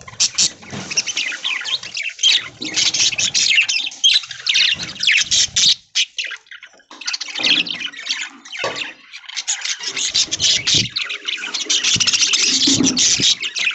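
A flock of budgerigars chattering with dense, fast chirps and squawks, with a brief lull about six to seven seconds in.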